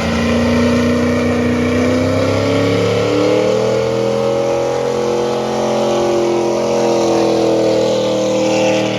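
Car engine revved hard and held at high revs, its pitch drifting slowly up and down.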